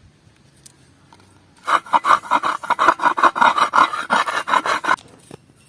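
Rapid rhythmic rasping strokes, about six a second, starting near two seconds in and stopping abruptly about three seconds later.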